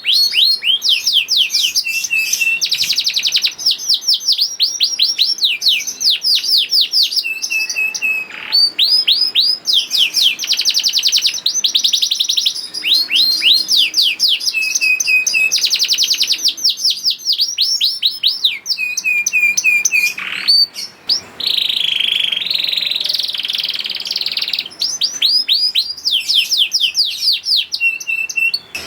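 Domestic canary singing without a break, a song of fast high trills made of quickly repeated downward-sweeping notes, changing from one trill to the next every second or two, with a buzzier rolling trill about two-thirds of the way through.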